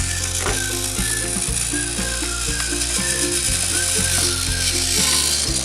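Motorized toy train's small motor and gears whirring steadily as it runs, with a simple tune playing underneath.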